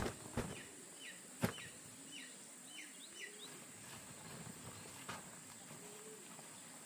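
Faint bird chirps: about seven short, high, downward-sweeping calls in the first few seconds over a quiet rural background, with a sharp knock about a second and a half in.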